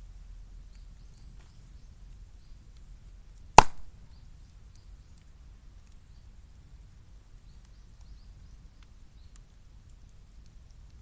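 Bamboo burning in a fire with faint scattered crackling, and about three and a half seconds in a single loud sharp bang as a sealed bamboo section bursts from the steam built up inside it.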